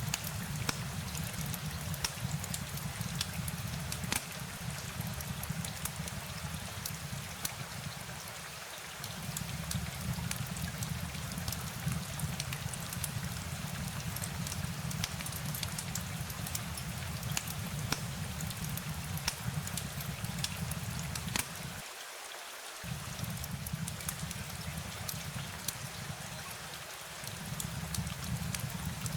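Steady rain with a dense patter of individual drops ticking over an even hiss. A low rumble underneath cuts out briefly three times.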